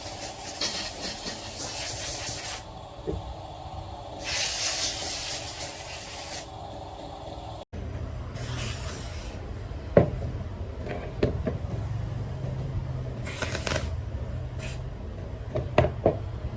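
Hissing spray in several bursts of one to two seconds each, with sharp knocks in the second half over a low hum.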